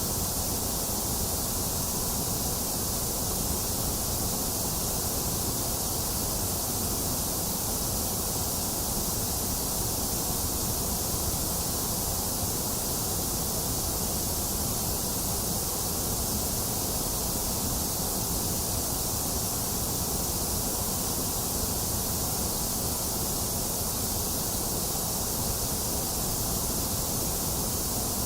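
Box fan running mixed with steady rain, an even, unchanging hiss with no breaks or separate drops.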